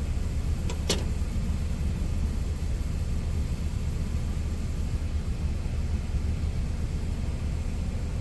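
Steady low rumble of an idling truck engine, with a single sharp click about a second in.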